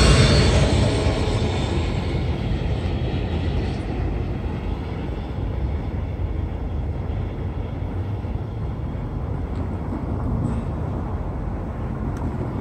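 Freight train of autorack cars moving away: its rumble falls off over the first couple of seconds, then settles into a steady low rumble.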